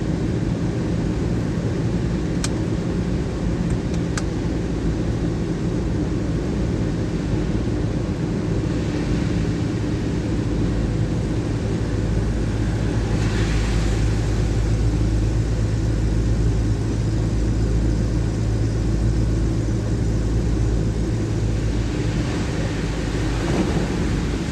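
1979 Chevrolet Caravan driving on the highway in rain: a steady engine and road hum with a hiss of noise, swelling into a louder rush a few times, most strongly about 13 seconds in.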